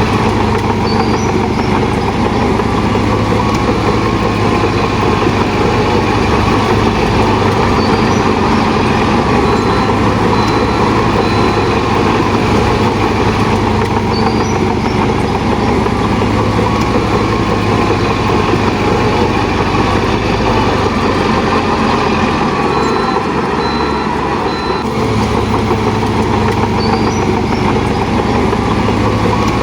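Shantui DH17 C2 crawler bulldozer's diesel engine running steadily with a dense mechanical din, easing briefly in the low end about three quarters of the way through.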